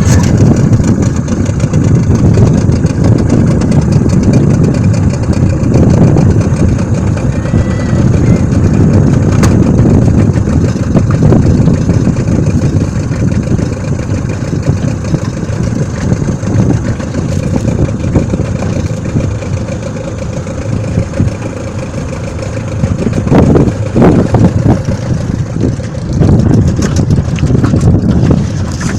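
Suzuki DT30 two-stroke outboard motor running steadily on a small aluminium boat under way, heavily mixed with rushing noise, with a few louder swells near the end.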